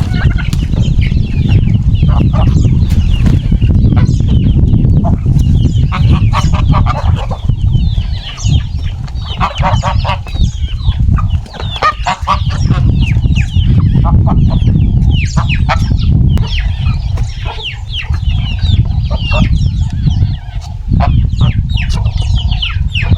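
A flock of chickens clucking and calling in many short, rapid calls, over a loud, steady low rumble.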